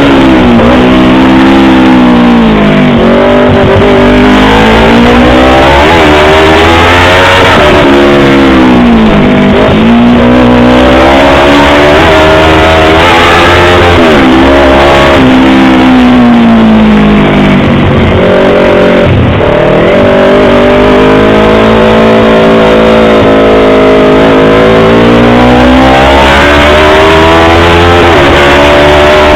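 Yamaha R25's parallel-twin engine and exhaust, loud, its pitch repeatedly rising as it revs and then falling away, with several quick sharp drops.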